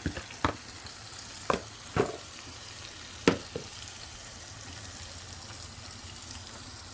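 Oxtail frying in a pot with a steady sizzle, its seasoning just added. A utensil knocks against the pot several times in the first half as it is stirred, then only the sizzle continues.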